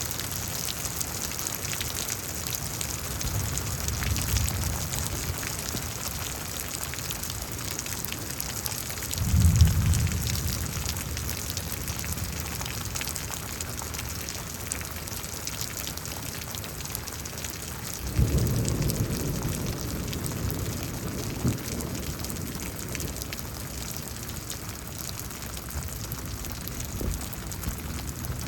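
Steady rain falling, with rolls of thunder: a soft rumble about four seconds in, then two sharper ones that start suddenly and rumble on for a couple of seconds, about nine seconds in and about eighteen seconds in, the one at nine the loudest.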